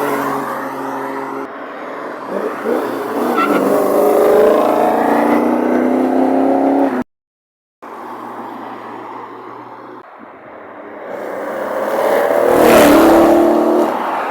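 Sports car engines accelerating, the pitch climbing for several seconds before an abrupt cut. Then another car builds up and passes by, loudest shortly before the end.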